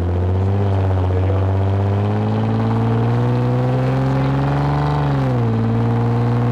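Lexus IS250's 2.5-litre V6 running through an aftermarket full exhaust with valved mufflers, pulling with a slowly climbing note. About five seconds in the pitch drops quickly and settles at a lower steady note.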